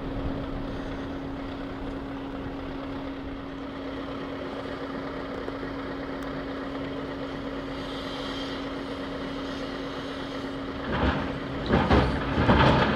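Heavy diesel engine running steadily with a constant hum, joined near the end by a few loud rushing bursts.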